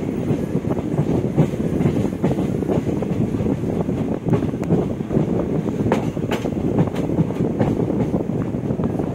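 Running noise of a passenger train heard from an open coach doorway: a steady rumble of wheels on the rails, with a few sharp clicks around the middle.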